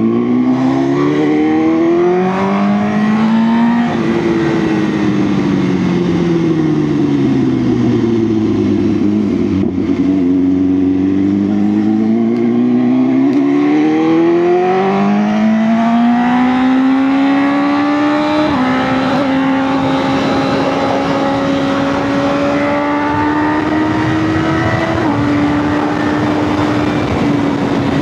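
BMW S1000R's inline-four engine under way: revs climb, then ease off and fall, pick up again, and step down twice in quick upshifts before holding at steady cruising revs.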